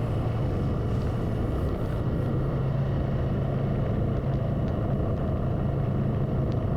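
Motorcycle engine running steadily at cruising speed, a low even drone with road and wind noise.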